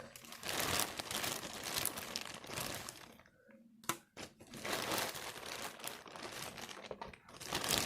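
Takeout seafood-boil bag crinkling and rustling as it is opened and handled, with a short break a little before halfway marked by a single click.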